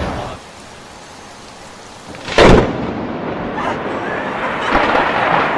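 Steady rain hiss, then about two and a half seconds in a sudden, very loud crack of thunder from a close lightning strike, after which the rain and storm noise carry on louder.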